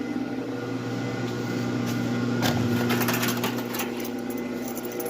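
A steady low machine hum, with a cluster of clicks and knocks starting about two and a half seconds in as the car's trunk is unlocked and opened.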